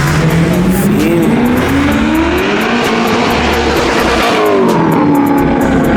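A car engine accelerating hard, its pitch climbing steadily for about three seconds, then dropping back and holding lower.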